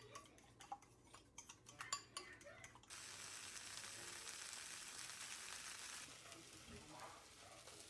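Kitchen cooking sounds: a few light clicks of utensils against cookware, then a steady hiss. The hiss starts abruptly about three seconds in and cuts off about three seconds later, leaving a fainter hiss.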